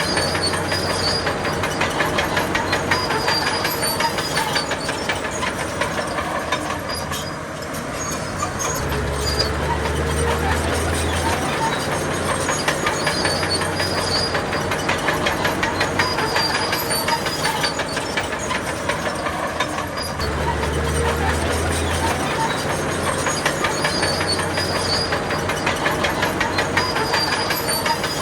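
Heavy tracked bulldozer working: its diesel engine running under load, with a fast, steady clatter of the crawler tracks and a deeper rumble that swells for a few seconds at a time.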